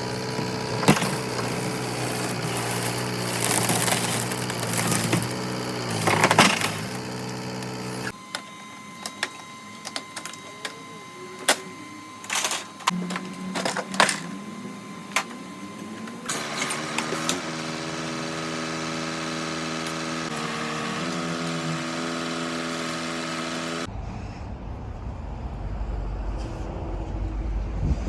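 Car dismantling work: a machine running steadily while parts crack, snap and knock as they are broken off, in several abruptly cut stretches.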